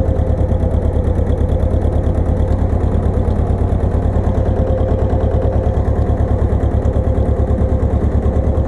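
Pasquali 980 EX tractor's engine running steadily with an even, rapid throb.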